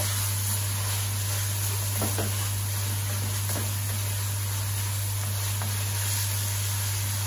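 Chicken karahi masala frying in a carbon-steel wok: a steady sizzle, with a few faint scrapes of the wooden spoon as it is stirred, over a steady low hum.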